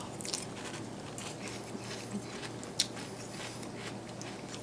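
A mouthful of Birthday Cake Pebbles crisp rice cereal with milk being chewed: scattered small crunches, with one sharper crack a little under three seconds in.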